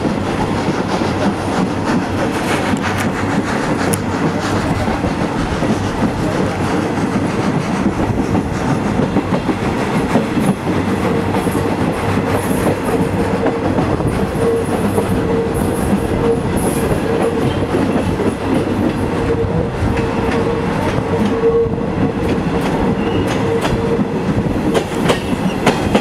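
Train running along the track with a steady rumble and clickety-clack of the wheels over the rail joints. A steady high tone holds through the middle for about twelve seconds.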